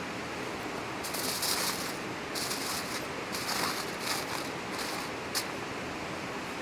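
Steady rush of a mountain stream, with several brief hissing rustles over it and a sharp click near the end.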